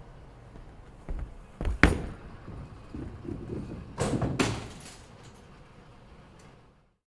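A few sharp knocks or thumps over a low, rumbling background, the loudest about two seconds in.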